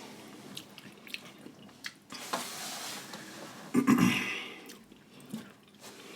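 Close-miked eating sounds: wet mouth clicks and lip-smacking while chewing, with a louder wet burst about four seconds in.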